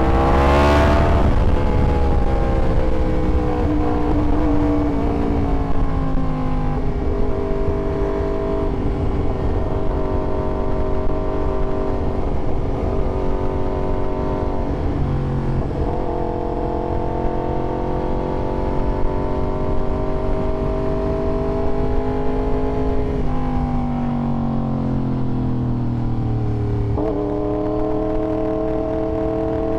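Yamaha YZF-R1 sport bike's inline-four engine running under way. It revs up hard near the start, then the engine pitch rises and falls with a few sudden steps, as at gear changes.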